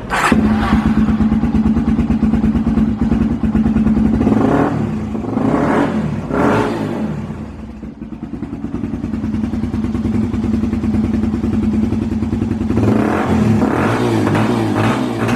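Yamaha TT250R's air-cooled single-cylinder four-stroke engine, breathing through a White Brothers aftermarket muffler, catching at the start and settling into a steady idle. The throttle is blipped three times, briefly, between about four and seven seconds in, and from about thirteen seconds in the revs are raised and held higher.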